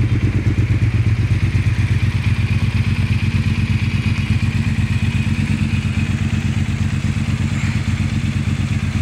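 Triumph Street Twin's 900 cc parallel-twin engine idling steadily through an aftermarket exhaust, with a deep, thick bass note and fast even exhaust pulses. The bike also has a K&N air filter and a remap.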